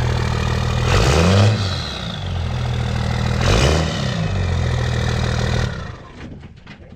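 24-valve Cummins inline-six diesel running through a 4-inch straight-pipe exhaust with no muffler, blipped twice from idle, about a second in and again a few seconds later, each rev rising and falling back. The sound cuts off about six seconds in.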